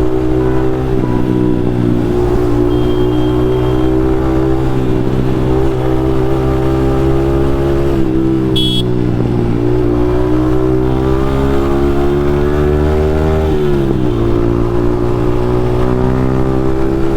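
Yamaha MT-15's single-cylinder engine through an aftermarket Akrapovic exhaust, heard while riding at fairly steady revs; about three-quarters of the way through the pitch drops sharply, then settles again. A short high-pitched beep about halfway through.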